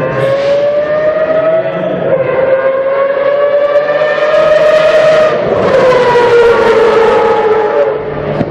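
Group C prototype race car engine running on track, a loud, high, steady engine note with a stack of overtones. Its pitch holds, then falls away from about five and a half seconds in.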